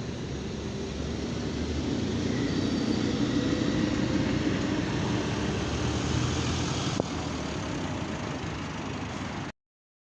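Road vehicle engine and tyre noise that swells over a few seconds and then eases off, as a vehicle drives past in traffic. There is a single sharp click about seven seconds in, and the sound cuts off abruptly near the end.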